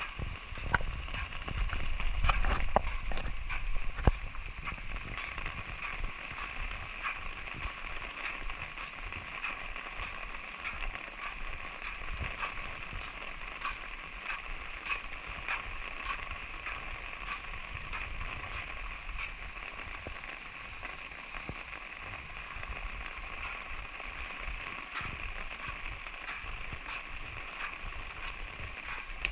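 Light drizzle falling steadily, with scattered drops ticking on surfaces. In the first few seconds a louder low rumble and a few knocks rise over it.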